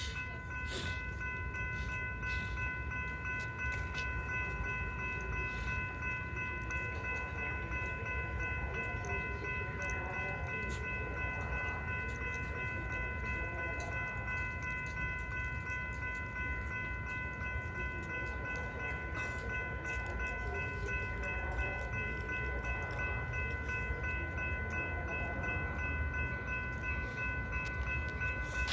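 Metra commuter train with a steady low rumble and a steady high-pitched whine, with scattered light clicks.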